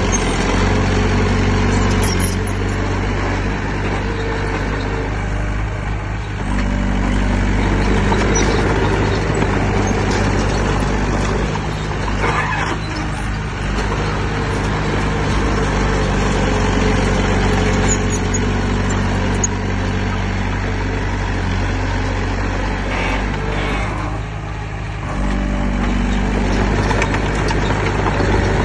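Heavy diesel engine of earthmoving equipment running under load, its note shifting about six seconds in and dipping briefly near the end, with a short rougher burst of noise around the middle.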